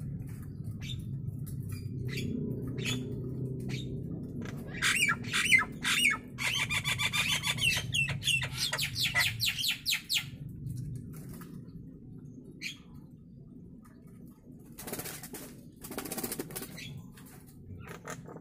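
Nias hill myna calling: scattered sharp clicks, then about six seconds of rapid, ringing, chattering notes, and later two harsh, noisy screeches. A steady low hum runs underneath.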